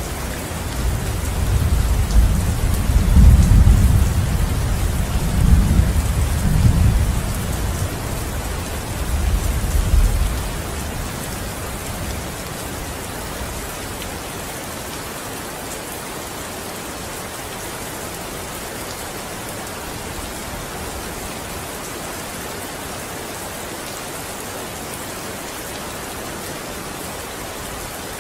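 Steady rain with a long, low roll of thunder that swells in several surges over the first ten seconds or so, then dies away, leaving the rain alone.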